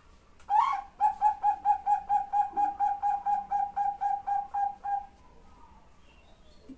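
Female zebra dove (Bangkok perkutut) calling for a male. One longer opening note is followed by a fast, even run of about twenty short cooing notes, some five a second, which stops about five seconds in.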